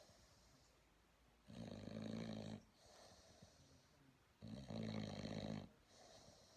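Bulldog puppy snoring in its sleep: two snores about three seconds apart, each lasting about a second, with soft breathing between them.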